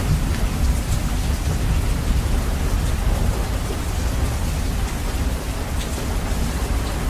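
Steady rain with a deep, continuous rumble of thunder, bass boosted so that the low end dominates.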